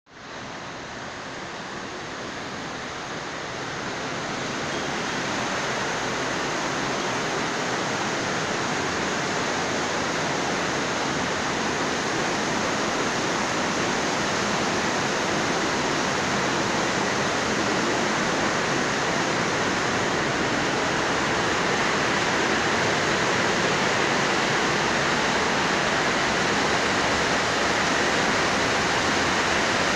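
Heavy rain pouring down in a steady, dense hiss, building up over the first few seconds and then holding strong.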